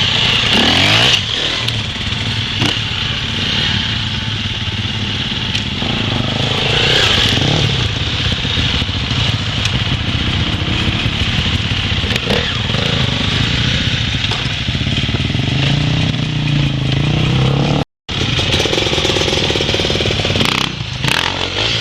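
Dirt bike engines running and revving up and down. The sound cuts out for a moment near the end.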